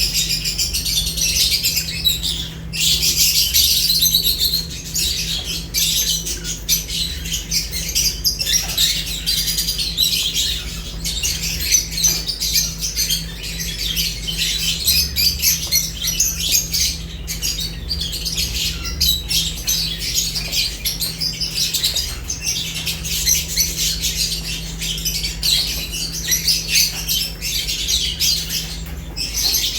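Several lovebirds chattering and chirping without pause: a dense stream of short, shrill calls and squawks.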